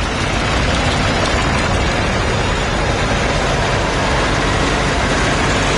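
Tractor engine running steadily, with a constant rushing noise over it.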